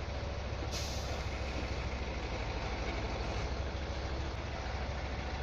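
Heavy truck diesel engine running with a steady low rumble, and a short burst of air-brake hiss about a second in.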